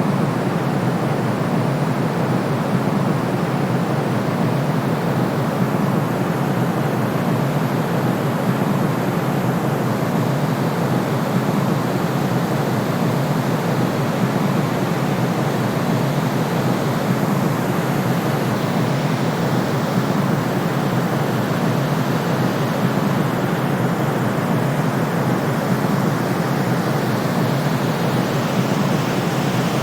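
Steady, unchanging white noise for soothing a baby: a deep, even rushing hiss, heaviest in the low range.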